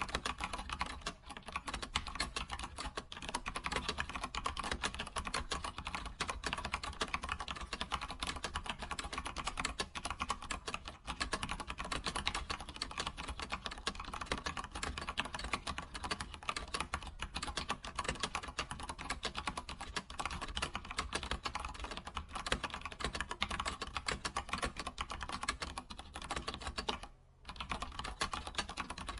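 Continuous fast typing on a computer keyboard, a dense patter of key clicks with a brief pause about 27 seconds in.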